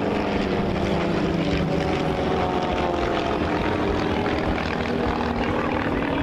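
Propeller aircraft engine droning steadily, its pitch drifting slightly.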